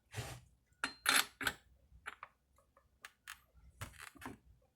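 Irregular small metallic clicks and taps of a tool and chainsaw parts being handled and fitted during reassembly.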